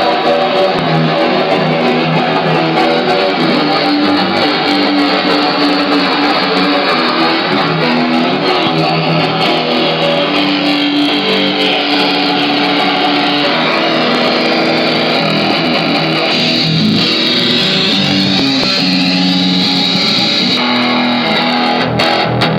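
Electric guitar played through an effects pedal, sustained notes and chords changing pitch, cutting off near the end.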